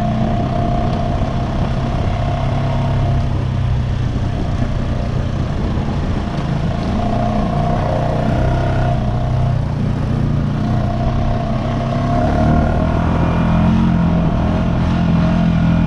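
Honda Rancher ATV's single-cylinder engine running under way, its pitch stepping up and down with the throttle and a little louder in the last few seconds.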